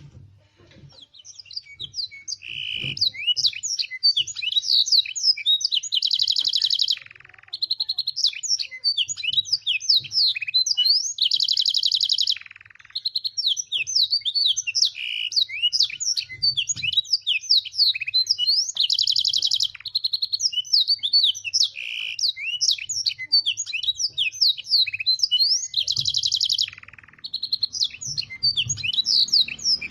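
Canary singing a long, fast song of rapid sweeping chirps, broken every few seconds by dense rolled trills, with brief pauses. The canary has been tutored with blackthroat and sanger phrases.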